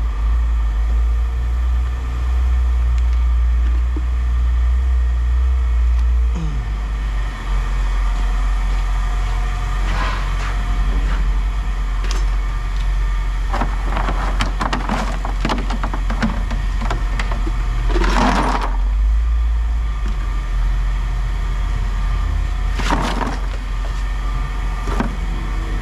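A vehicle engine idling with a steady low rumble, while pieces of scrap metal clatter and clank now and then, in a run of rapid knocks in the middle and a louder burst a little later.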